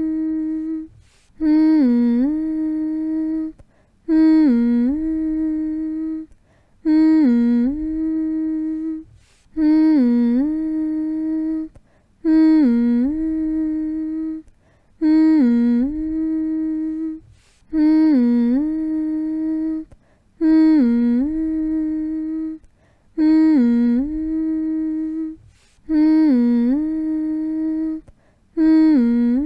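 A person's voice humming the same short phrase over and over, about once every three seconds. Each hum dips in pitch and comes back up to a held steady note, followed by a short gap.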